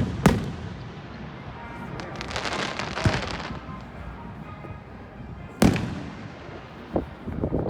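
Aerial fireworks going off: a loud bang just after the start, a stretch of dense crackling a couple of seconds in, and another loud bang about five and a half seconds in, with a smaller pop near the end.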